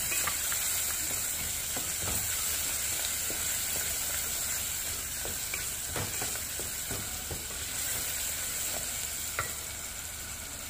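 Sliced onion and spices sizzling in hot oil in an aluminium pot, with a steady hiss, while a wooden spatula stirs them and knocks and scrapes irregularly against the pot.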